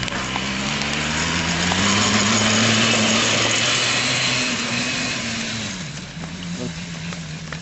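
Suzuki RG125 Gamma single-cylinder two-stroke engine of a homemade go-kart running under throttle. It grows louder for the first few seconds, then its pitch and level drop about six seconds in.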